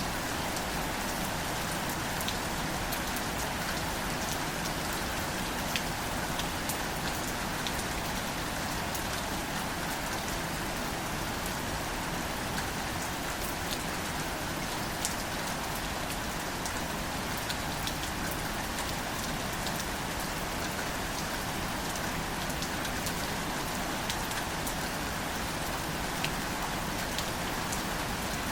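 Steady light rain falling on plants and leaves, with many small individual drop ticks scattered through an even hiss.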